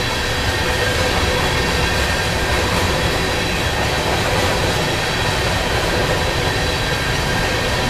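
Grain-train covered hopper cars rolling past on steel rail: a steady rumble of wheels on track, with a faint high steady wheel squeal over it.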